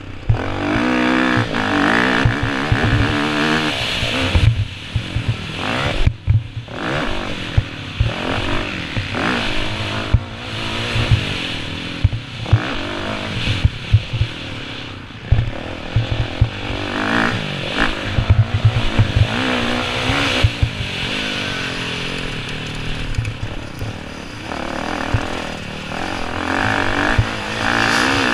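Motocross dirt bike engines revving hard and easing off over and over, the pitch climbing and dropping as the bikes accelerate and shift.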